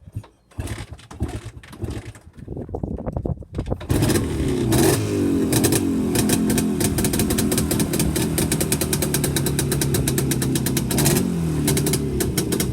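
1959 Panther 324cc motorcycle engine being started: a few irregular firing bursts as it turns over, then it catches about four seconds in and runs steadily, revving up briefly and dropping back in pitch near the end.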